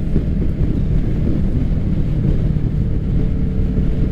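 Kawasaki Ninja 650's parallel-twin engine running steadily through an M4 full aftermarket exhaust at low road speed, with wind noise on the microphone. A faint higher tone joins about two seconds in.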